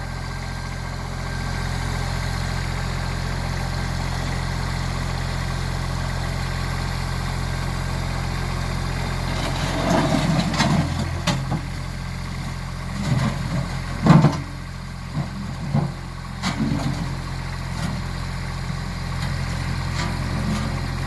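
Tractor engine idling steadily, with a few irregular louder sounds over the middle, the loudest about fourteen seconds in.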